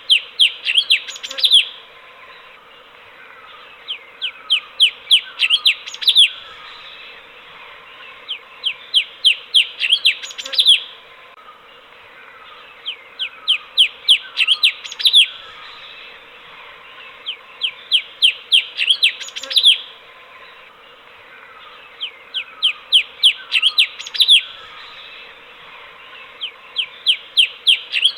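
Cucak cungkok, a bulbul, singing its repeated phrase: a run of about eight quick chirps that speed up and end in one louder note, coming about every four and a half seconds. A faint steady hum lies underneath.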